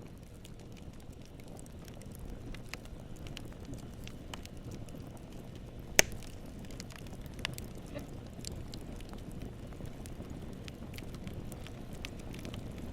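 Campfire burning, with a steady low rumble of flames and scattered crackles and pops of burning wood; one sharp, much louder pop about six seconds in.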